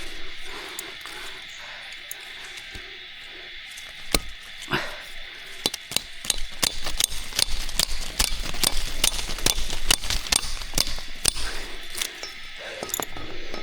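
A run of sharp chopping or knocking strikes, a few a second, growing denser through the middle, over a steady high-pitched insect drone.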